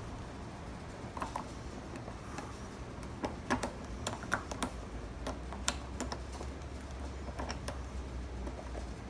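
Small, sharp metal clicks and taps of tools working a lock cylinder, irregular and scattered, coming thickest a few seconds in. A steady low hum runs underneath.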